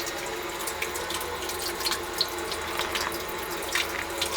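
Water pouring and splashing steadily as a sump pump runs, pumping out groundwater that keeps seeping in after heavy rain.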